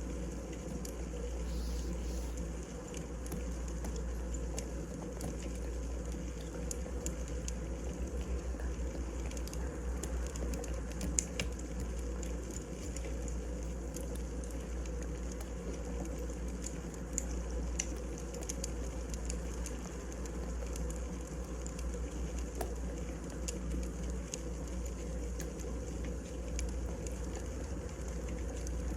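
Firewood burning in a fireplace: a steady low rumble with scattered small crackles and pops, one sharper pop about eleven seconds in.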